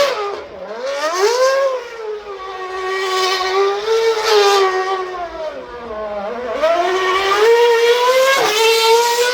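A performance car's engine revving hard, its pitch gliding up and down with throttle and gear changes. The pitch drops sharply and climbs back about half a second in, holds fairly steady, dips again around six seconds in, then climbs and holds high.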